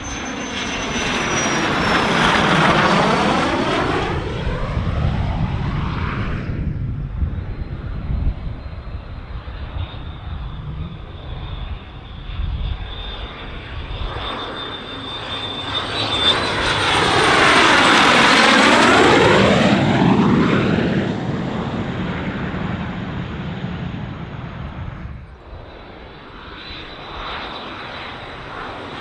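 Jet aircraft passing low overhead twice, about fifteen seconds apart. Each pass swells to a loud rush and fades away, with a high whine that drops in pitch as it goes by. The second pass is the louder.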